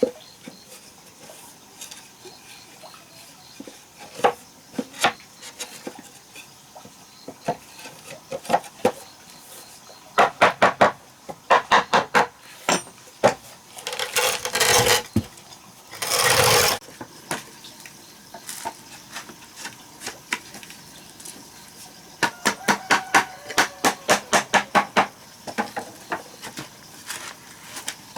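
Kitchen utensil work: clinks of dishes and utensils, with two runs of quick, even taps of a utensil against a bowl or board, and two short rushing noises in the middle.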